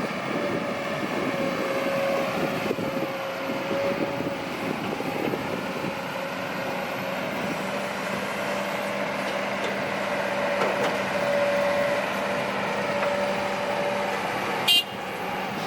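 Heavy diesel earth-moving machinery running steadily, with a continuous mid-pitched whine over the engine noise, and one brief sharp sound near the end.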